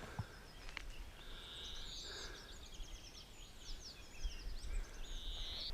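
Faint songbird singing: a quick run of high chirps and down-sweeping notes, with two longer buzzy notes, over a low outdoor rumble.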